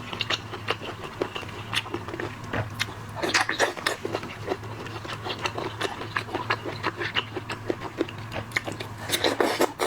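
Close-miked eating of shrimp and crab: rapid clicks and crunches of chewing and shell cracking, busiest about three seconds in and again near the end. A steady low hum runs underneath.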